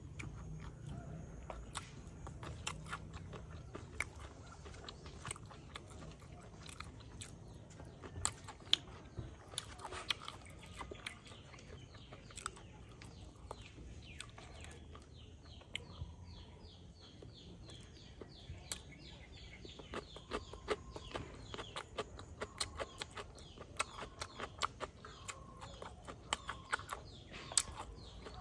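Close-up eating sounds of a person chewing cooked silkworms and rice: many small, irregular mouth clicks and smacks.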